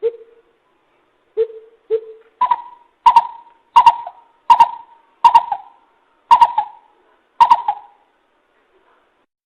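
Greater coucal calling: three deep hoots, then a run of seven higher hoots a little under a second apart, each note trailing off in an echo.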